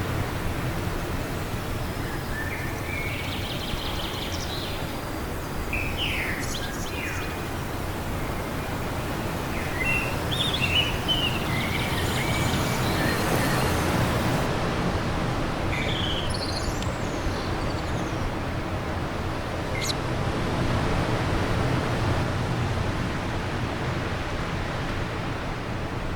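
Steady wind noise, with songbirds chirping and calling on and off over it; the calls fall silent for the last few seconds.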